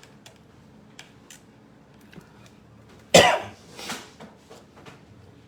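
A person coughs twice: a loud cough about three seconds in, then a weaker one just after. Faint light ticks come and go around it.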